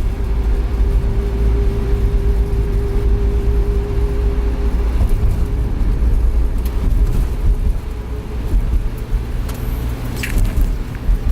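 Van driving, heard from inside the cabin: a steady low rumble of engine and road noise, with a faint steady hum that fades out about halfway through and a few clicks near the end.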